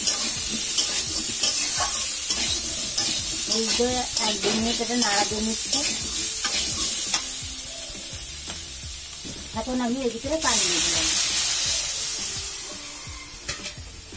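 Pumpkin cubes sizzling in hot oil in a karahi while a spatula stirs and scrapes them against the pan, with many sharp clicks. About ten seconds in a sudden louder hiss rises as water is poured into the hot pan, then the sizzle dies down.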